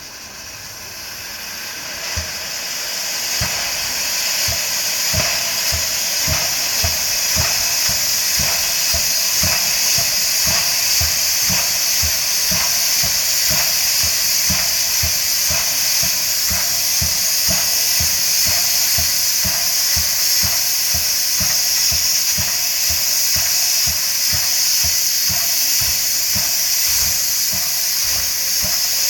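Steam hissing from the C62 2 steam locomotive, swelling over the first few seconds and then holding steady, with a regular low thump about twice a second beneath it.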